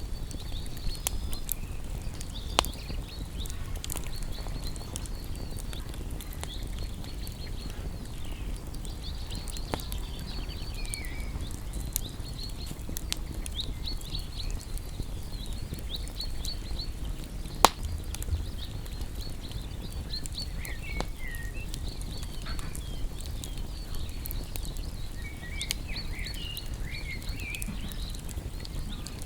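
Wood campfire crackling: scattered sharp pops and snaps over a low steady rumble, with one loud pop about two-thirds of the way through. Birds chirp and trill in the background.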